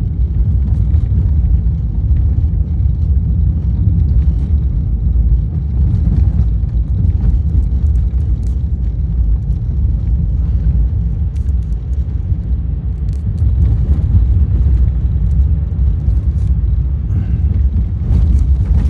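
Car cabin rumble from driving over a rough, snow- and ice-covered road: a loud, steady low rumble with a few faint clicks and rattles.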